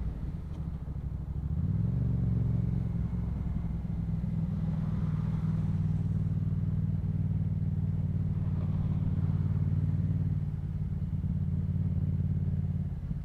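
Yamaha MT-07's parallel-twin engine through a Yoshimura aftermarket exhaust, running at low road speed. The revs pick up about two seconds in, hold steady, and ease off briefly near the end.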